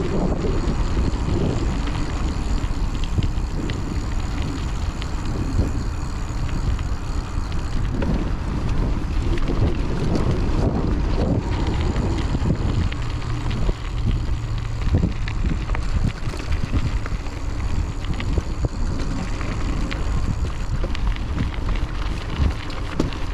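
Wind buffeting a chest-mounted action-camera microphone over the rumble of a Raleigh Trailblazer hardtail mountain bike riding an off-road trail. Small clicks and rattles from the bike run through it.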